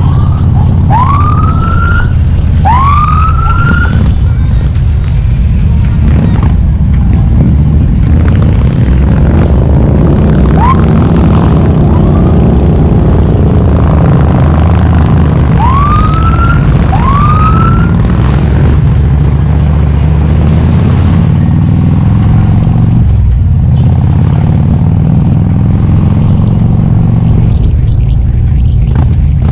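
Harley-Davidson V-twin engine running steadily while riding. Over it come three pairs of short, rising siren-like whoops.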